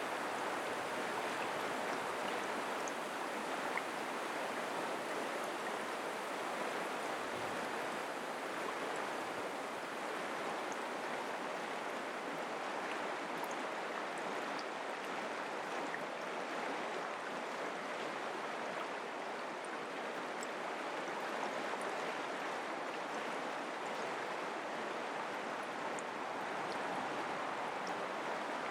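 Mountain creek water running over rocks as an even, unbroken rush.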